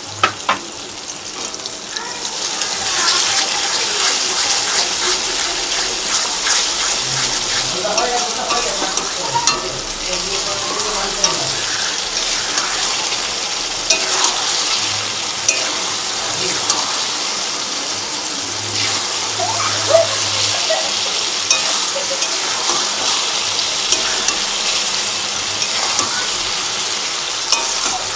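Garlic paste frying in hot oil with sliced onions, tomato and green chillies in a metal kadai, sizzling steadily while a spatula stirs and taps against the pan. The sizzle grows louder about two seconds in as the stirring starts. The oil has already separated from the fried onions.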